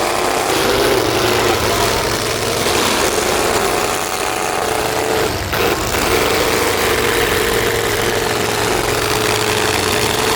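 Demolition-derby trucks' engines running steadily, with a brief dip about halfway through.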